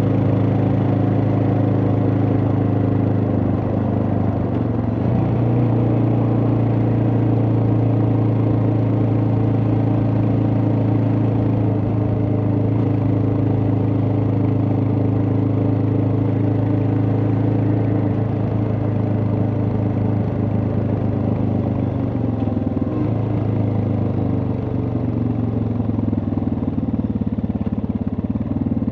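Suzuki DR650's single-cylinder four-stroke engine running under way at a steady speed, with a brief dip in pitch about four seconds in. From about two-thirds of the way through, the engine note falls gradually as the bike slows.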